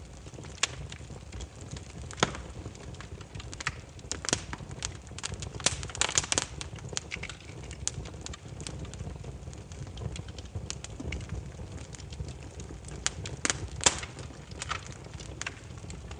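Burning firewood crackling: irregular sharp pops and snaps over a steady low rumble of the flames, with denser bursts of pops a few seconds in and again near the end.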